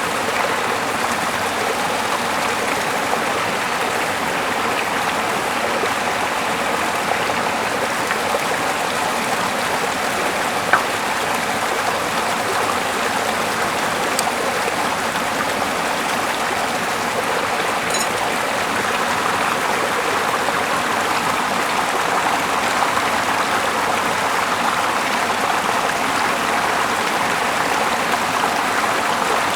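Small river flowing steadily, an even rush of running water. About a third of the way through there is a single sharp click.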